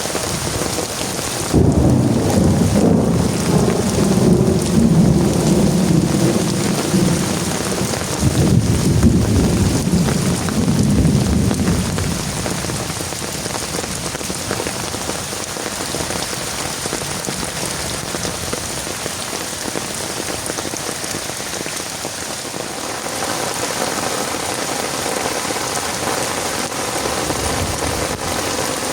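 Heavy rain falling steadily, with a long roll of thunder that breaks in suddenly about a second and a half in, swells again partway through, and dies away before the halfway point, leaving the rain alone.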